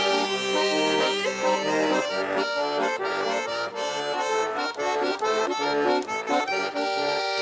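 Bayan (Russian button accordion) playing an instrumental passage of a folk-style song, quick notes over sustained chords.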